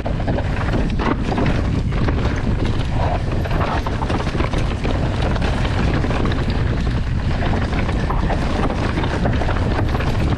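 Mountain bike descending a trail, heard from a camera on the rider: steady wind rush on the microphone with the tyres running over dirt and the bike rattling over bumps.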